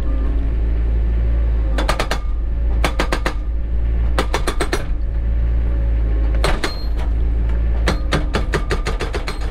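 Cat 307 excavator's diesel engine running steadily, with several short bursts of rapid metallic clinking and clattering from the machine at work.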